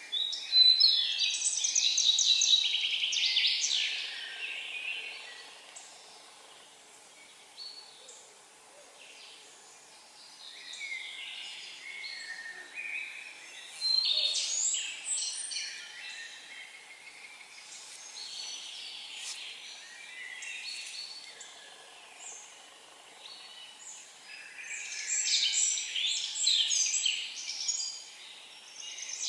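A songbird singing loud, high phrases of about three seconds each, repeated roughly every ten to twelve seconds: right at the start, midway and near the end. Fainter bird calls come in between.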